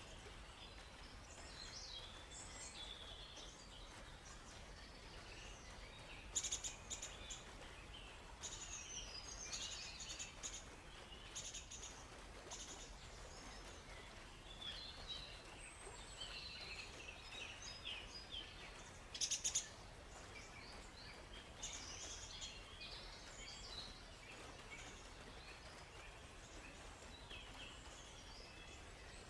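Many songbirds chirping, with short high calls overlapping one another and a couple of louder, sharper calls about six seconds in and again near twenty seconds in, over a faint steady hiss.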